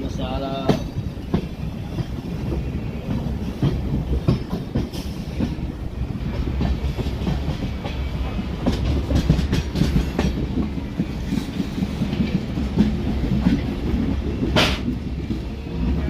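Express passenger train running on the rails: a steady low rumble with the clickety-clack of wheels over rail joints. About fourteen and a half seconds in comes a single sharp, ringing metallic clank.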